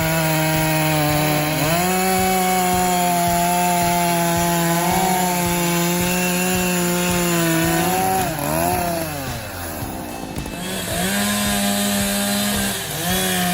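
Two-stroke chainsaw engine running at high revs while cutting. Its pitch steps up about two seconds in and holds steady. It drops and comes back up briefly past the middle, eases off, then returns to full revs near the end.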